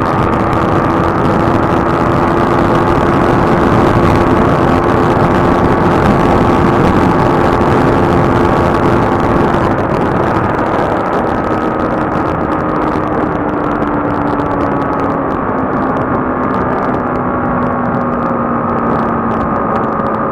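Motorcycle engine droning at a steady highway cruise under a rush of wind. Its pitch sags slowly in the second half as the throttle eases off.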